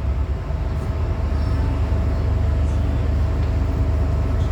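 Inside a moving MTR M-Train metro car: a steady low rumble of wheels and running gear on the track, with a faint steady whine over it.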